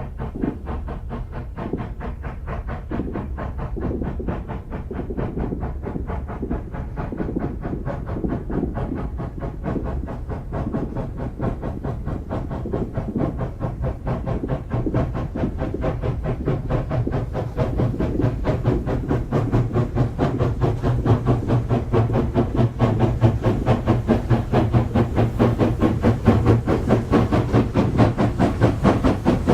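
SY-class steam locomotive working a train, its exhaust beating in a rapid, even chuff over a low rumble, growing steadily louder as it approaches.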